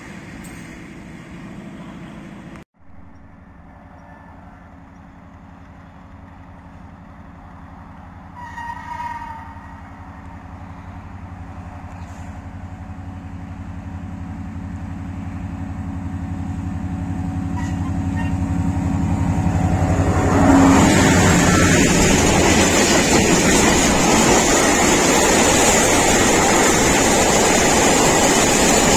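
Freight train approaching along the track: a short horn blast about a third of the way in, then the locomotive grows steadily louder until it reaches the microphone, after which loaded hopper wagons roll past with a steady, loud wheel-on-rail rumble. At the very start, the tail of another train of hopper wagons fades away.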